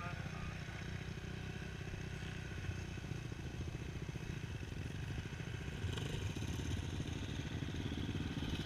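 Motocross motorcycle engine running steadily, a low pulsing rumble that swells a little about six seconds in.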